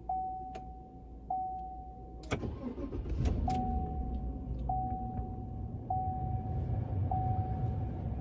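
A car's engine being restarted: a click about two seconds in, then the engine catches and settles into a steady idle, restarted after its fault codes were cleared. A single-note dashboard warning chime repeats about once every second throughout.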